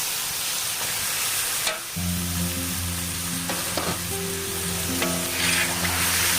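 Minced chicken sizzling as it fries in hot oil and spice paste in a pan, with stirring. Background music starts up about two seconds in.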